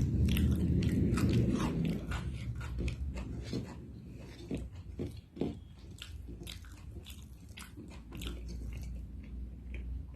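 Close-miked mukbang eating: biting and chewing food, with many small sharp clicks and crunches. It is heavier and fuller in the first couple of seconds, then thins to scattered clicks.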